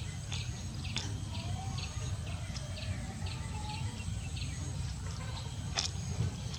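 A small bird chirping: a run of short, high chirps, a few a second, over a steady low background rumble.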